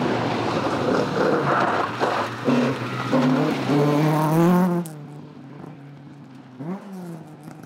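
Rally car engine revving hard, its pitch rising and falling with throttle and gear changes as the car passes. The sound drops away sharply about four and a half seconds in, leaving a fainter engine.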